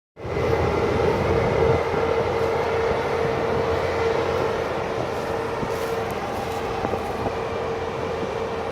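Heavy harvest machinery running steadily during a grain transfer, a constant mid-pitched whine over a rumble and hiss.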